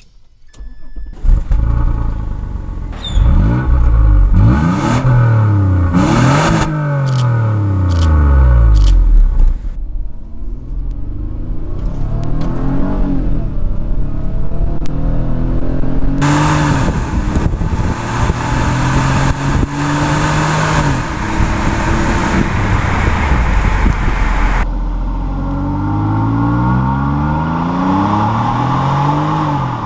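The 2004 Mazda 6s's Ford-built 3.0 V6 starts about a second in and is then driven hard, its engine pitch rising and falling again and again as it revs up and drops back.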